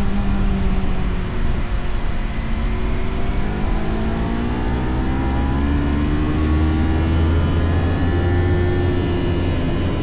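Motorcycle engine running on the move over a steady rush of wind noise: the engine note drops about a second in, then climbs steadily for several seconds as the bike accelerates.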